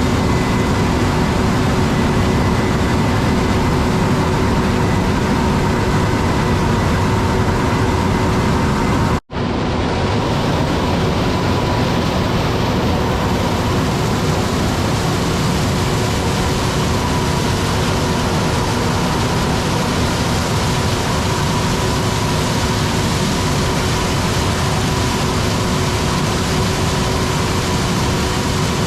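Corn-harvesting machinery, a Massey Ferguson combine harvester and tractor, running steadily: a loud, even engine drone with a constant whine. It cuts out for an instant about nine seconds in.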